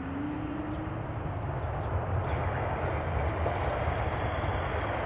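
Jet airliner engine noise, a steady noise without clear pitch, mixed with uneven low wind rumble on the microphone.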